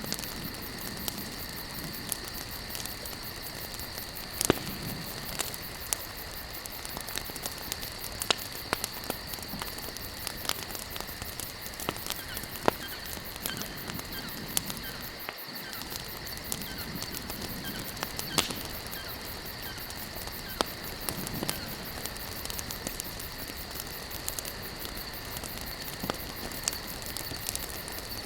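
Wood campfire burning, with frequent sharp crackles and pops at irregular intervals over a steady hiss. A faint, steady high-pitched drone runs underneath.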